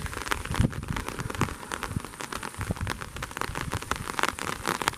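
Light rain: scattered raindrops falling as irregular sharp ticks over a faint steady hiss.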